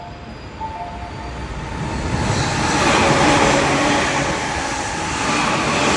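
Sobu Rapid Line electric commuter train passing through at speed: a rising rumble of wheels on rail, loudest about three seconds in and staying loud. A few short electronic tones sound near the start.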